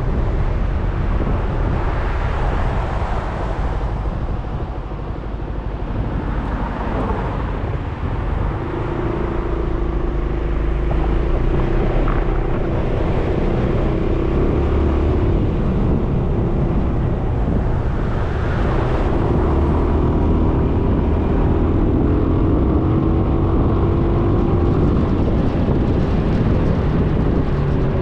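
Riding noise from a Suzuki Burgman 400 scooter's single-cylinder engine under way, with wind rumbling on the microphone. A steady engine drone comes in about a third of the way through and holds, shifting a little in pitch with speed.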